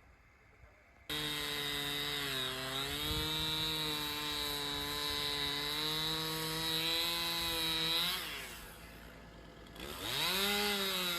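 Chainsaw starting suddenly about a second in, running at high revs as it cuts through a fallen tree, its pitch wavering slightly under load. Around eight seconds in it winds down, then revs up sharply again near the end.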